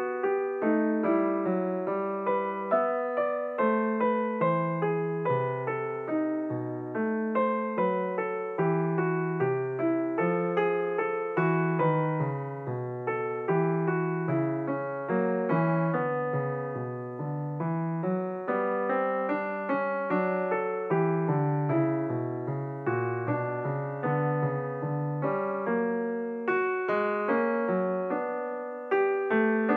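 Background piano music: a gentle melody of struck notes over low chords, about two notes a second, each ringing and fading away.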